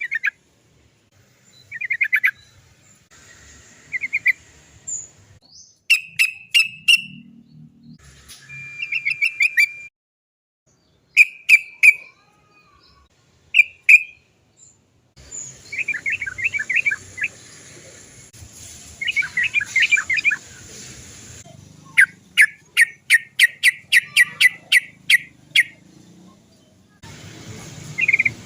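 Sooty-headed bulbul song: repeated short chattering 'cok cok cok' phrases and quick trills, with a long run of evenly spaced notes, about three a second, near the end.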